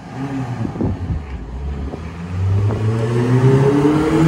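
Chevrolet Aveo's 1.2-litre naturally aspirated petrol engine accelerating hard on approach, its pitch climbing steadily over the second half and growing louder as the car nears.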